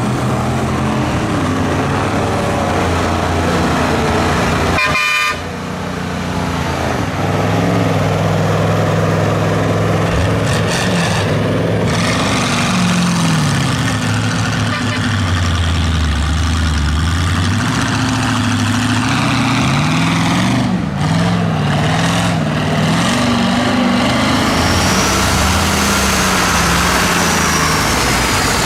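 Off-road truck engines running and revving in mud, the pitch rising and falling repeatedly, with a sudden cut about five seconds in.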